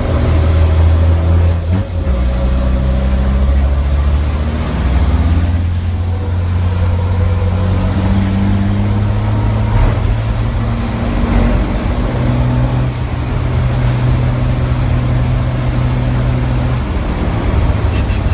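Race truck's diesel engine running hard under load, its note stepping up and down as the revs change through the gears. A high whistle glides up and down near the start and again near the end.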